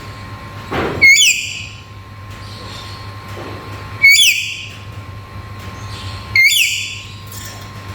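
Black-capped lory giving three loud, shrill calls, spaced two to three seconds apart. Each is a sharp, quick upward-then-downward flick in pitch with a short fading tail.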